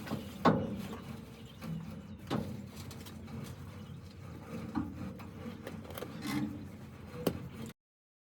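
A few scattered knocks and scrapes of hand work over a low background hum, then the sound cuts out abruptly near the end.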